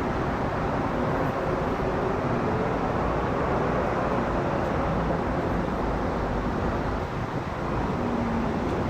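Steady jet roar of a Singapore Airlines Airbus A380's four engines as it flies overhead, a dense rumble with faint wavering tones and no sudden events.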